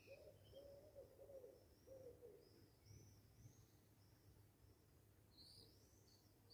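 Faint birdsong: a few short, low cooing or hooting notes in the first two seconds, with soft high chirps throughout that grow louder near the end.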